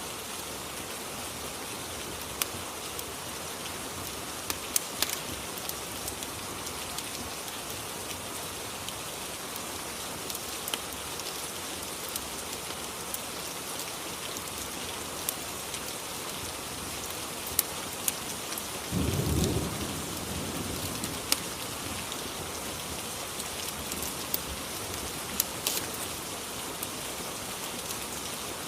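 Steady rain ambience with scattered sharp ticks, and a brief low rumble of thunder about two-thirds of the way in.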